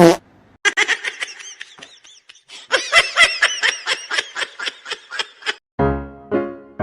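A quick run of short, high-pitched laughing sounds, each rising and falling in pitch, a few a second with brief gaps. A piano tune starts near the end.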